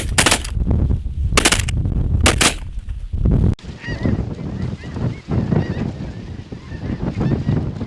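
Three shotgun blasts about a second apart over wind rumble on the microphone, then, after a sudden cut about three and a half seconds in, a large flock of snow geese calling continuously with high, yelping honks.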